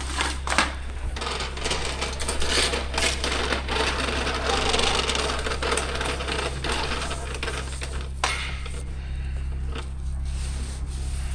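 Retractable pressure-washer hose reel rewinding, the hose rubbing and rattling as it is drawn in for several seconds, with a few sharp clicks, over a steady low machine hum.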